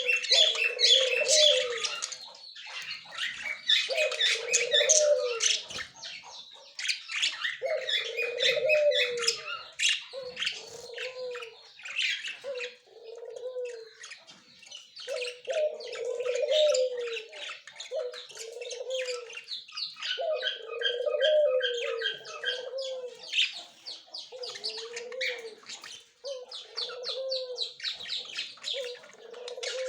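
Budgerigars chattering and warbling non-stop in quick high chirps, with a low cooing call repeated every second or two beneath.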